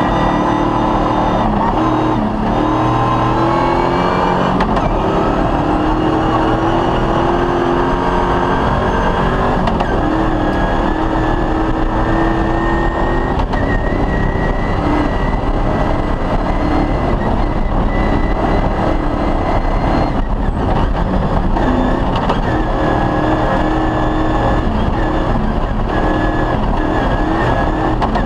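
Rally car engine running hard at high revs, its pitch wavering a little with the throttle, over a constant loud rumble of driving noise.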